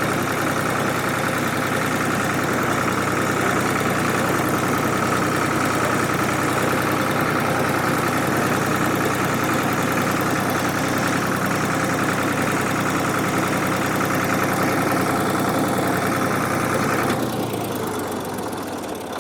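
1967 Ford 2000 tractor engine running steadily, left running to warm up and stir the oil before an oil change; near the end the engine speed drops and it gets quieter.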